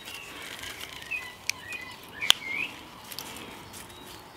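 Small birds chirping, short twittering calls coming and going, with two sharp clicks, the louder one a little past halfway.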